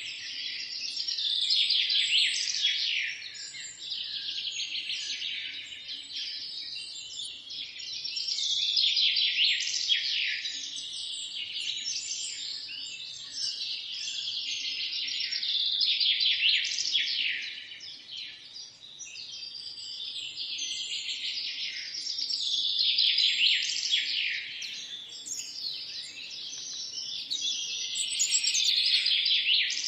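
Several songbirds singing and chirping together in a dense chorus of high, quick, down-sweeping notes and trills, swelling and fading every six or seven seconds.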